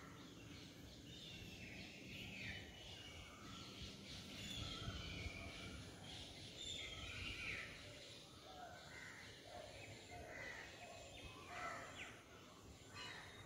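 Several birds chirping and calling faintly in the background, short calls scattered throughout over a quiet outdoor hush.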